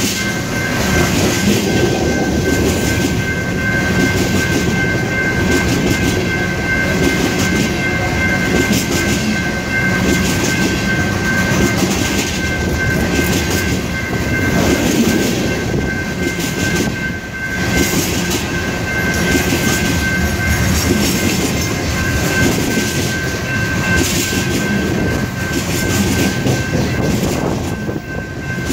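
Empty coal gondolas of a freight train rolling past close by: a steady rumble of steel wheels on rail with repeated clacks over the rail joints. A thin, steady high-pitched tone runs underneath.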